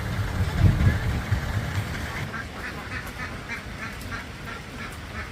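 A flock of domestic ducks quacking, many short calls overlapping several times a second, from about two seconds in. A low rumble fills the first two seconds.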